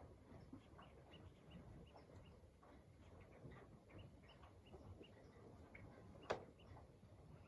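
Faint outdoor ambience with many short, scattered chirps and one sharp click about six seconds in.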